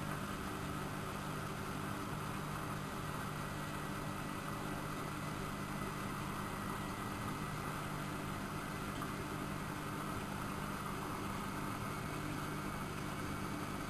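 Siemens Siwamat 6143 washing machine running with a steady, even hum, with no change in pitch or rhythm.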